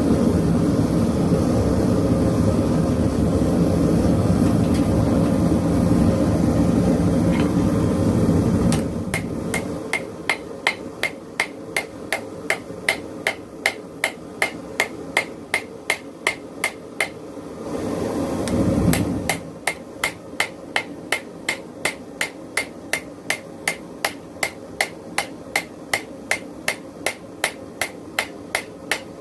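A propane forge's steady rush, then, about nine seconds in, a hammer striking a hot railroad spike on an anvil at an even pace of about two blows a second, forging the blade. A short burst of the forge's rush comes back about two-thirds of the way through while the hammering goes on.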